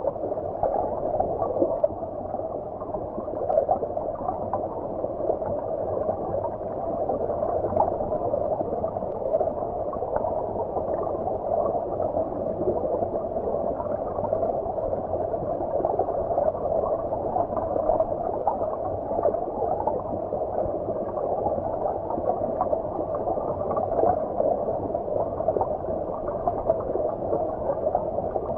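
Shallow stream water heard from beneath the surface: a steady, muffled gurgling and bubbling with no bright splash sounds.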